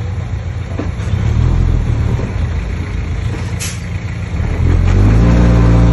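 Komatsu D20P bulldozer's diesel engine running under load. It grows louder about a second and a half in and again near five seconds in, with a short sharp click about three and a half seconds in.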